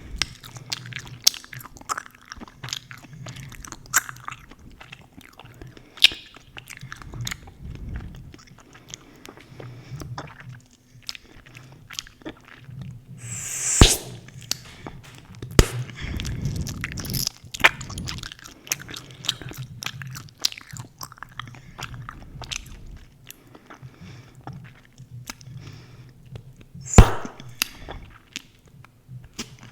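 Close-miked gum chewing: wet, smacking mouth clicks with a few sharp snaps, the loudest about halfway through and near the end.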